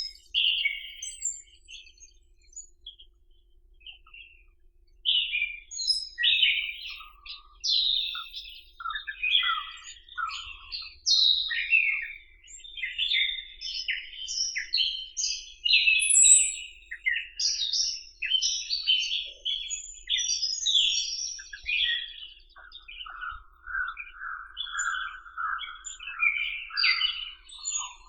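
Several small birds chirping, many short calls overlapping one another, growing busier about five seconds in, with a lower, steadier run of chirps joining in near the end.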